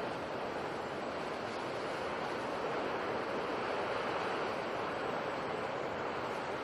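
Sea surf: a steady rush of waves with no separate breakers standing out, swelling slightly midway.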